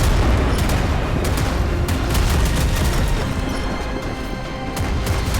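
Rapid gunfire with deep booms and a heavy low rumble, over background music; the shots come in clusters during the first two seconds and thin out after that.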